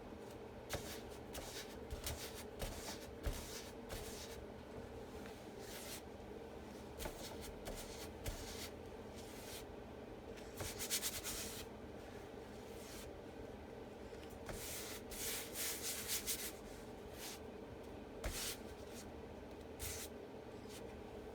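Soft intermittent rustling and rubbing as an adhesive chalk transfer sheet is handled and smoothed down by hand, with a few light ticks, over a steady low hum.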